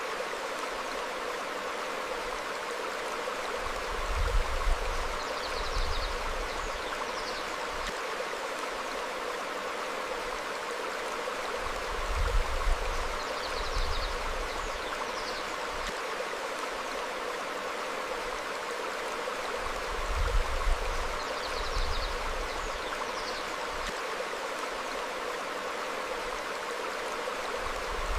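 A stream flowing steadily over rocks. A brief low rumble swells about every eight seconds, and faint high bird chirps come now and then.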